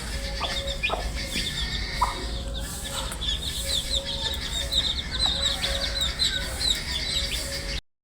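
A brood of baby chicks peeping continuously: many short, high, falling chirps overlapping one another over a low rumble. The sound cuts off abruptly near the end.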